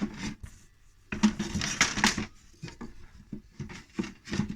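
Wooden beehive frame and hive box being handled: a scraping stretch about a second in, then a few light knocks.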